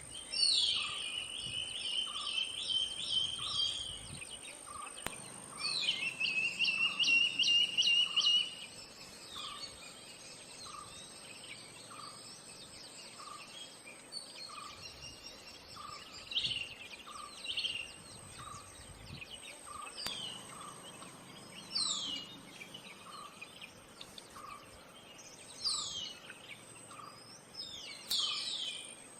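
Silver-breasted broadbill calling: two long, rapid trills of high notes in the first eight seconds, then single short falling notes every few seconds. Behind it run a steady very high whine and a faint pip about once a second.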